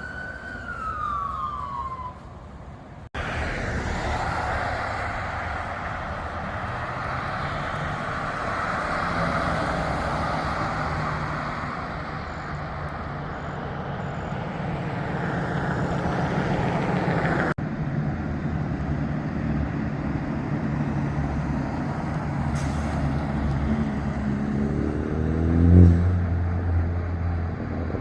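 A fire truck siren winding down in pitch over the first two seconds, then the diesel engines of fire trucks pulling away. Near the end one engine revs up to the loudest point.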